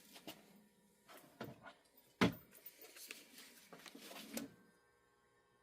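Irregular small clicks and knocks of a model locomotive and its parts being handled on a workbench, with one louder knock a little over two seconds in; it goes quiet near the end.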